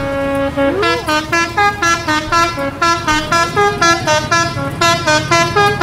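Multi-tone "telolet" musical horn playing a fast tune of short notes, about four to five a second, stepping up and down in pitch, with one sliding note about a second in.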